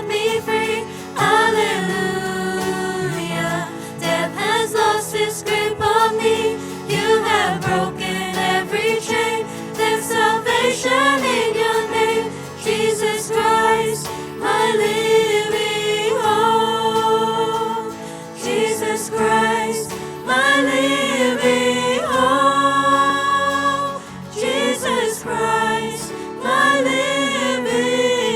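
A choir singing a Christian worship song, sustained sung notes throughout.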